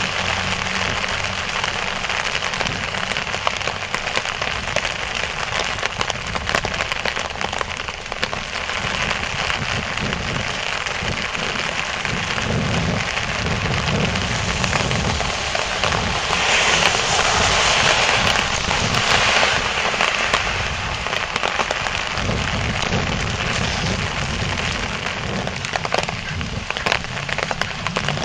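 Heavy rain drumming on a clear bike umbrella canopy overhead: a dense, crackling patter of drop impacts that grows louder for a few seconds past the middle.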